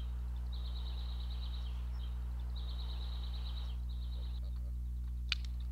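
A small bird singing in repeated high trills, with a steady low hum underneath and a single faint click near the end.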